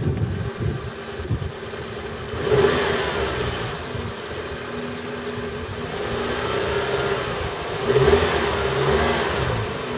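Car engine idling and revved briefly twice, a few seconds apart, each time rising and falling in pitch. It is being test-run after spark plug and ignition coil work for a cylinder 2 misfire.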